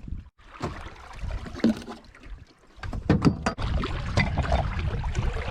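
Knocks and clunks of gear being moved about in a 14-foot aluminium jon boat: a few near the start, then a cluster about three seconds in, over a low rumble.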